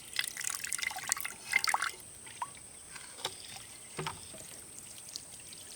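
Thin stream of water trickling and splashing into a container for about two seconds, then a few scattered small knocks.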